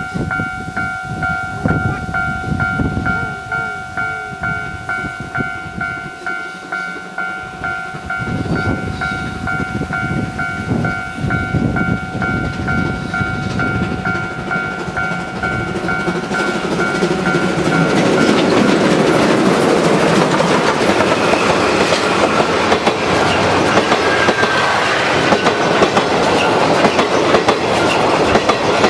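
Level-crossing warning bell ringing in an even, repeating pulse. About two-thirds of the way through, a train hauled by a C56 steam locomotive and a DD51 diesel locomotive rolls past, and its loud wheel clatter on the rail joints and bridge takes over.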